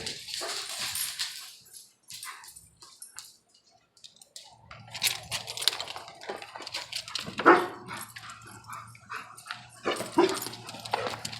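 A dog barking a few times, the loudest barks about halfway through and again near the end.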